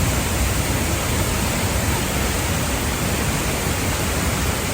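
Tegenungan Waterfall's falling water: a loud, steady, even rush.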